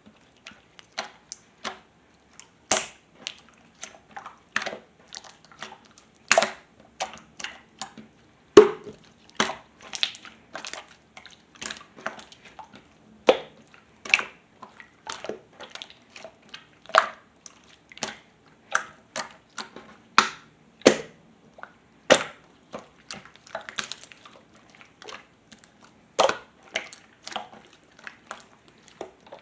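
Purple water-pudding mixed slime being worked by hand, giving irregular sharp pops and clicks, a few a second.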